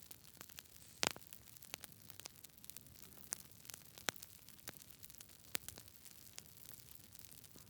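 Wood fire burning in a fireplace, crackling with irregular sharp pops and snaps over a faint steady hiss; the loudest pop comes about a second in.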